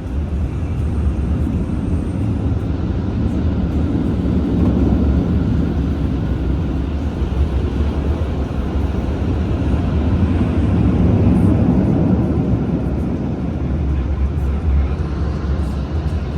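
Automatic car wash tunnel machinery heard from inside the car's cabin: a loud, steady low rumble that swells and eases a couple of times as the car moves through the wash.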